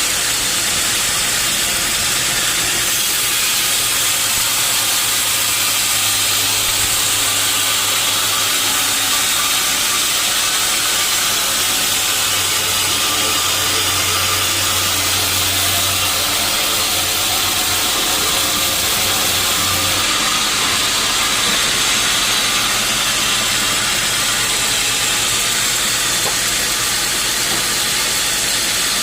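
Sawmill saw cutting through a teak log: a loud, steady hiss over a low motor hum. The hum grows stronger about six seconds in and drops back about twenty seconds in.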